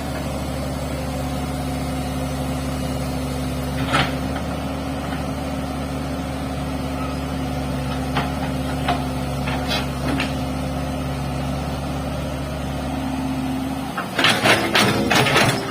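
Hitachi excavator's diesel engine running steadily, with a few single clanks and a rapid flurry of loud knocks near the end.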